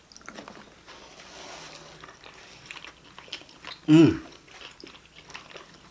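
Close-miked mouth sounds of people eating: soft chewing and small wet clicks. About four seconds in comes one short vocal sound that falls in pitch.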